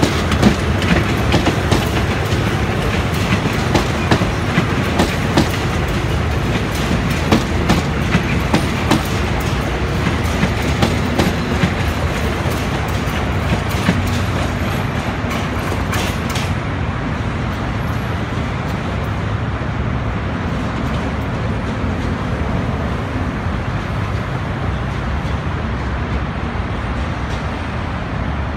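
Passenger carriages of a State Railway of Thailand train rolling past and away, their wheels clacking over the rail joints. The clatter thins out after about sixteen seconds into a steady, duller rumble as the train draws off.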